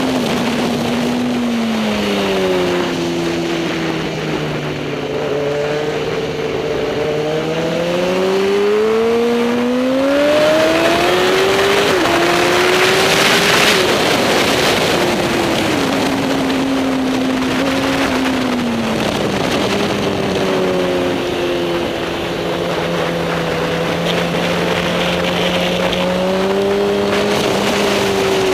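Racing superbike engine on the circuit, its pitch sweeping down and back up slowly over several seconds, twice, as the bike slows and accelerates, over a steady wash of noise.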